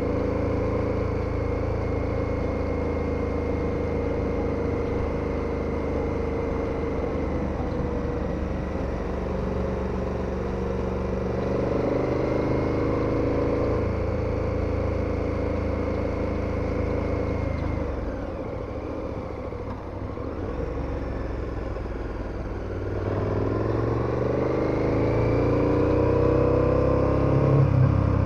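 KTM 1290 Super Adventure's V-twin engine running under way, its pitch rising as it accelerates about twelve seconds in and again over the last few seconds, with a quieter off-throttle stretch in between.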